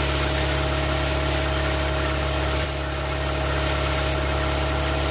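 Warmed-up car engine running at a steady speed, an even hum that dips slightly in level a little over halfway through.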